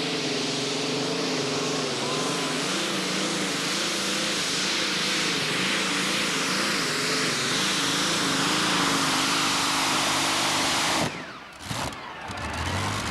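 Modified pulling tractor's engine running at full power under load, its pitch wavering up and down throughout. The sound drops away suddenly about eleven seconds in.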